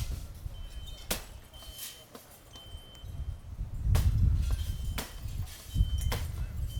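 Gusty wind buffeting the microphone in surges, with a few sharp cracks and a short high beep repeating about once a second.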